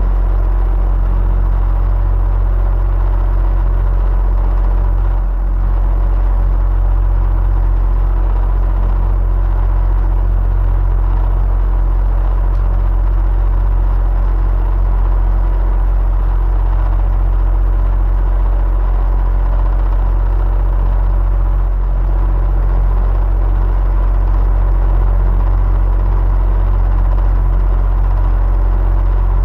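Electric fan running steadily: a continuous low hum and rushing whoosh, with a faint steady whine above it.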